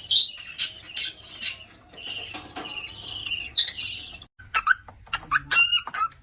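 Small birds chirping with many quick high calls; just after four seconds the sound breaks off and a run of short rising cheeps follows, several a second.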